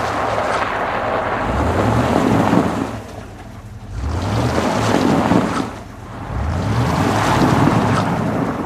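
A stuck car's engine revving again and again while its drive wheels spin without grip, with the tyres hissing and churning. The revs rise and fall in three surges, each easing off briefly before the next.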